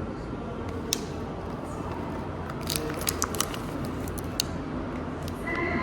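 A few sharp clicks, with a quick run of them about three seconds in, over a steady low background hum.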